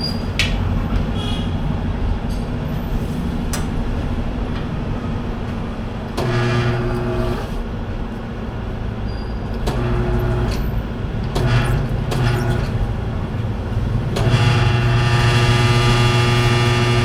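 Workshop machine motor running in four bursts of a few seconds each over a constant low hum, the longest and loudest near the end.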